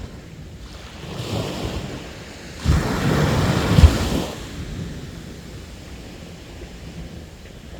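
Sea waves breaking on the shore: a smaller wave about a second in, then a larger wave crashes suddenly near the three-second mark and runs for about a second and a half before settling into a quieter wash.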